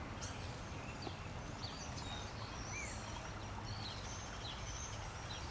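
Birds chirping and whistling: many short, high calls scattered throughout, over a steady low background hum.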